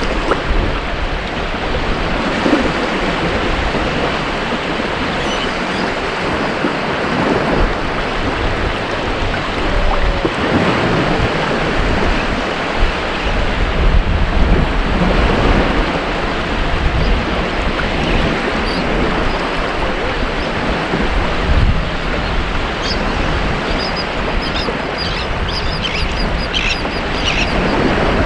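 Ocean waves breaking on a beach: a steady, loud wash of surf that swells and eases. Faint bird calls come in near the end.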